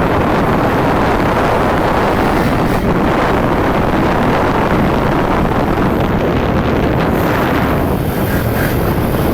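İMF 140 cc pit bike's single-cylinder four-stroke engine running under throttle, heavily buffeted by wind noise on the microphone.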